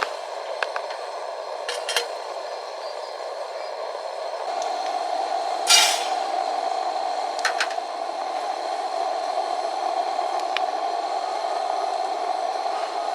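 A steady rushing noise, a little louder from about four seconds in, with a few short light clinks over it, the loudest a little before halfway.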